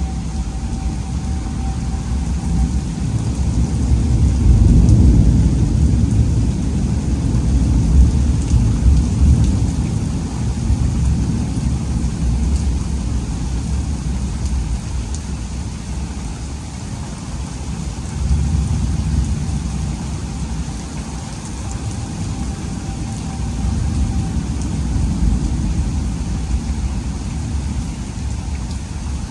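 Heavy rain falling steadily during a severe thunderstorm, with long low rolls of thunder that swell about four to ten seconds in and again a few times later.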